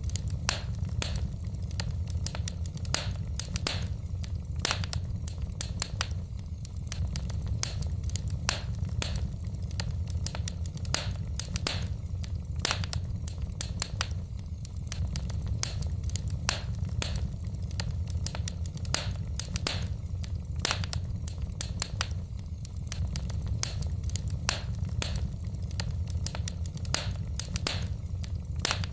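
Wood fire in a fireplace crackling, with frequent irregular sharp pops and snaps from the burning logs over a steady low rumble.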